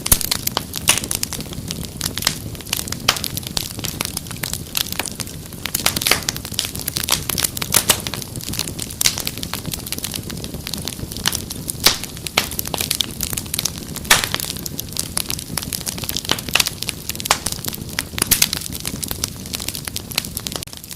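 Wood fire crackling: dense, irregular sharp pops and snaps over a low steady rumble of burning.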